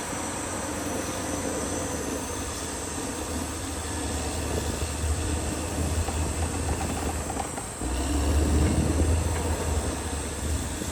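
Caterpillar D6R XL bulldozer working, its diesel engine running with a steady low rumble and track clatter. The engine note grows louder about halfway through, dips for a moment, then swells again under load.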